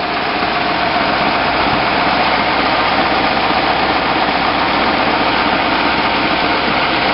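1956 Ford Thunderbird's Y-block V8 idling steadily, purring evenly, heard close up from the engine bay.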